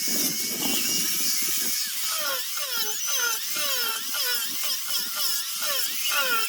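High-speed rotary sanding tool running against wood, a steady high whine with grinding hiss. From about two seconds in its pitch dips over and over, about two to three times a second.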